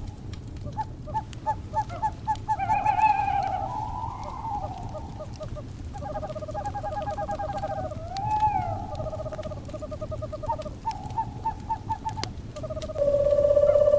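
Owls calling in quick runs of hoots and quavering trills, with one short rising-and-falling call about eight seconds in, over the low rumble and scattered pops of a crackling fire.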